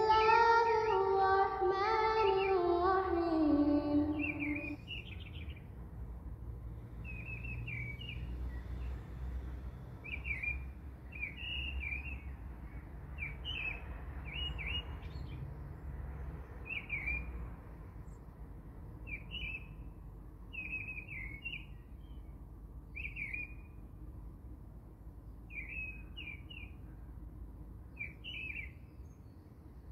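A small bird chirping: short, high chirps repeating about once a second or a little slower, over a faint low background. In the first four seconds a louder pitched melody steps downward before fading out.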